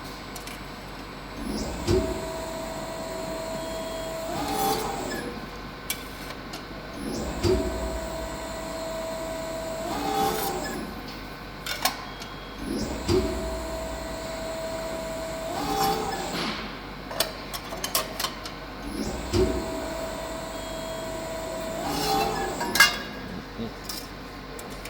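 Bystronic Xpert 80 hydraulic CNC press brake running repeated bending cycles, four times, about every six seconds. Each cycle opens with a low thump, then a steady hum of about two seconds that rises in pitch at its end, then clicks and knocks.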